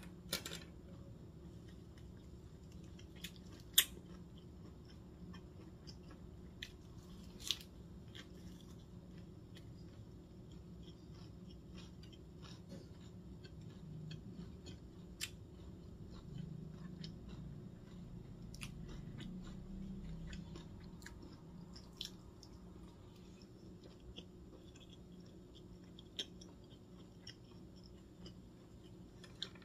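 Chewing and biting of lettuce-wrapped rice and sliced boiled pork, a little louder in the middle stretch, with a few sharp clicks here and there.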